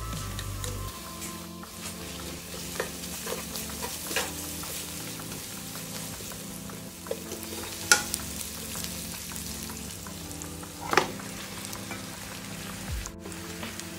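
Chopped onions sizzling as they fry in a non-stick wok, stirred with a slotted spatula. A few sharp knocks and scrapes of the spatula against the pan sound over the sizzle, the loudest about eight seconds in.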